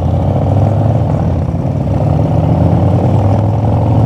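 Harley-Davidson V-twin motorcycle engine running steadily with a deep, even note.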